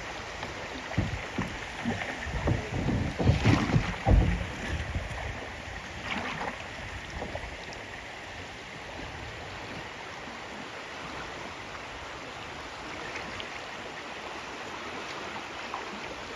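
Steady rush of river water around a kayak, with low rumbling thumps loudest in the first four seconds.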